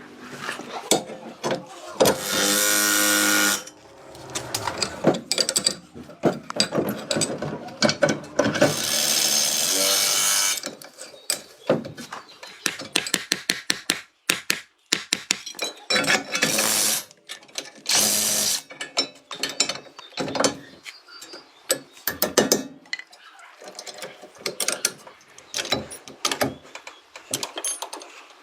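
Car repair work with tools: a power tool runs in two bursts, about 2 seconds in and again about 9 seconds in, between many short ratcheting clicks and knocks of hand tools on metal.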